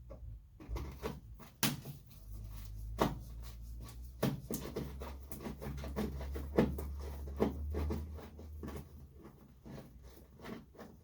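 Irregular clicks and knocks of small parts being handled and worked loose by hand, with a few sharper knocks. A low rumble runs under them from about two seconds in until near the end.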